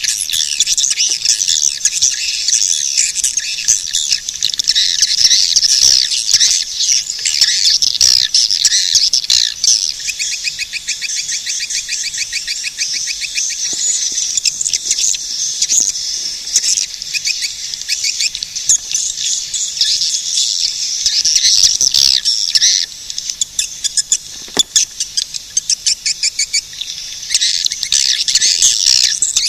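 Swiftlets twittering: a dense, high chatter of calls with fast buzzy trills, thinning out about two-thirds of the way through and swelling again near the end.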